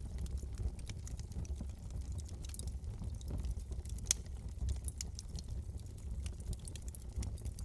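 Wood fire in a fireplace crackling, with scattered sharp pops and one louder snap about four seconds in, over a steady low rumble of the flames.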